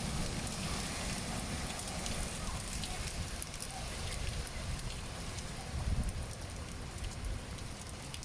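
Heavy rain falling, a steady hiss dotted with the ticks of drops striking surfaces. A low rumble swells briefly about six seconds in.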